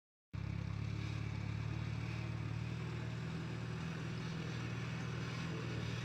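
An engine running steadily, starting abruptly about a third of a second in.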